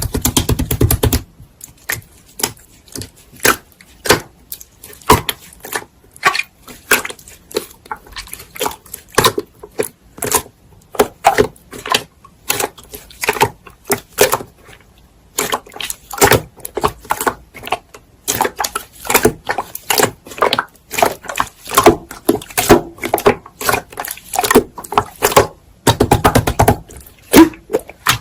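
Hand-played slime: irregular crisp clicks and pops, several a second, as it is pressed, poked and folded, with a denser rapid crackle at the start and again near the end.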